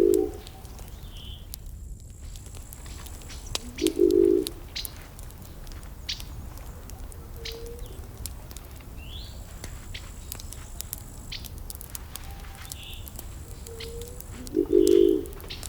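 Campfire wood burning with irregular crackles and pops. A bird gives three short, low calls that stand out above the fire, at the start, about four seconds in and near the end, with a few fainter high chirps between.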